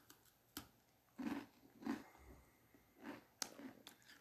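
A person chewing food close to the microphone: a handful of short, faint mouth smacks and clicks.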